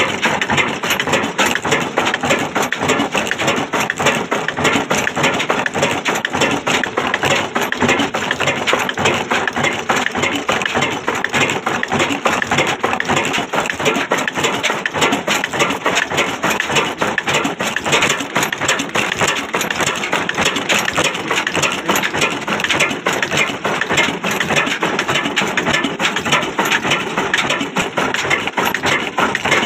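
Old Ruston & Hornsby diesel engine running, a steady, rapid mechanical clatter.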